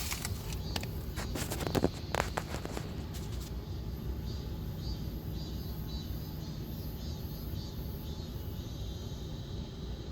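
Peugeot 508 engine idling steadily, with a few sharp clicks and knocks over the first three seconds.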